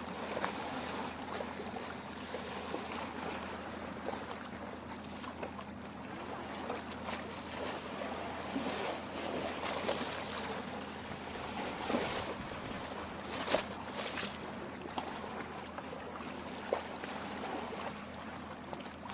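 Lake water lapping and gurgling against rocks at the shore, a steady wash with small irregular splashes and a few sharper plops in the second half.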